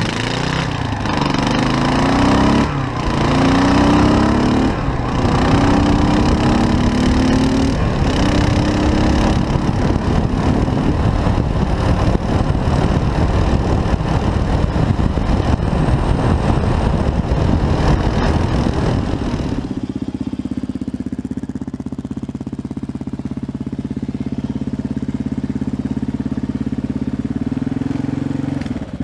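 Kawasaki KLR single-cylinder motorcycle engine accelerating hard through the gears, its pitch climbing and dropping at each of several upshifts, then running steadily at speed. About two-thirds of the way in it changes to a steady, lower, even note like the engine idling.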